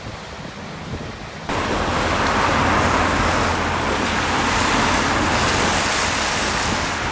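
Storm-force gale wind and surf: a steady rush of wind and breaking waves, with wind buffeting the microphone. It jumps suddenly louder about a second and a half in.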